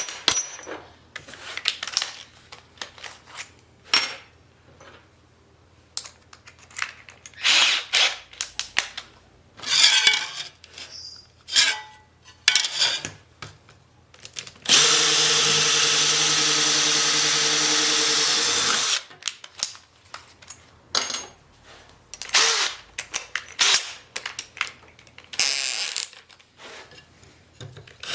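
A power tool runs steadily for about four seconds midway. Before and after it come scattered clinks, taps and knocks of tools and metal parts being handled.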